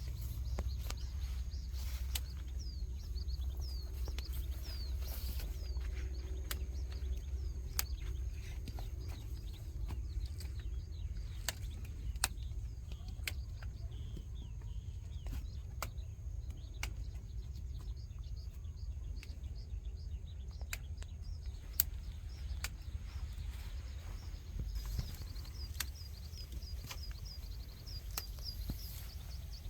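Outdoor ambience: small birds chirping in quick high notes, busiest near the start and again near the end, over a steady low rumble, with scattered sharp clicks.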